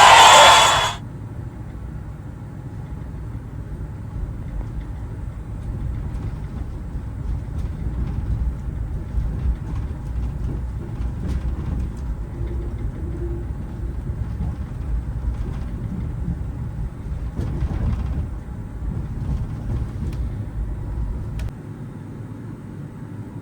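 Steady low rumble of a train running, with faint scattered clicks; the deepest part of the rumble drops away near the end. A loud burst of noise cuts off about a second in.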